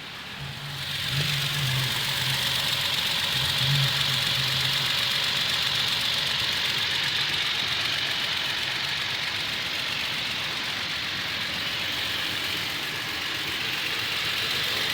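Toyota Tacoma pickup engine idling while warming up, with the loud ticking noise that the owner believes is a valve or a bad lifter, though Toyota calls it normal. The sound swells up about a second in and then holds steady.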